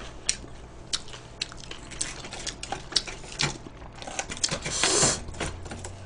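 Close-up eating sounds of crispy fried chicken: irregular crunches and sharp clicks while chewing and handling the food, with a longer scratchy crunch about five seconds in.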